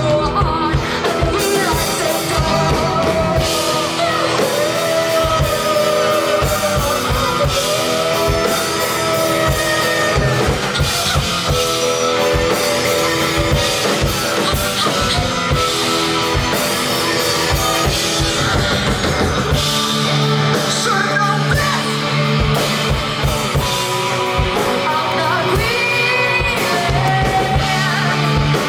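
Live rock band playing, with drum kit, guitar and a singing voice that holds long gliding notes.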